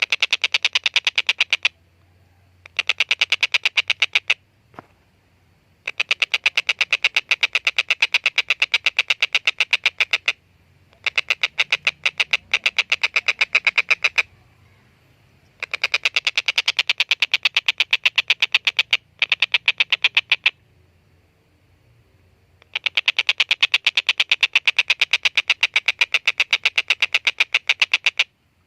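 A tengkek buto kingfisher giving its long rapid 'kek-kek-kek' chattering call, six bursts of fast, evenly spaced notes, each a few seconds long with short pauses between. A single sharp click sounds about five seconds in.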